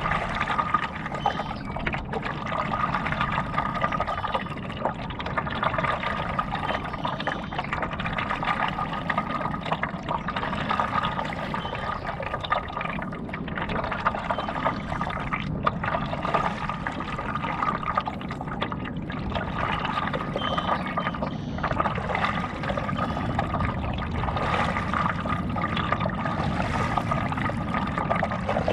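Water splashing and lapping against a paddleboard moving across a lake, a continuous rough wash with a steady faint high tone underneath.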